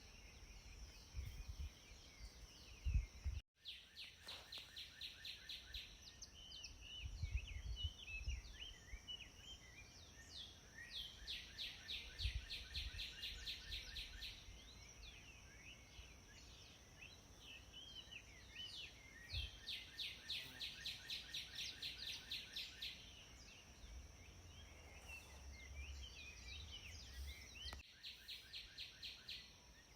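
Wild birds singing in an outdoor ambience: long phrases of rapidly repeated chirping notes, coming in several bouts, over a steady high-pitched whine and occasional low rumbles. The sound drops out briefly a few seconds in.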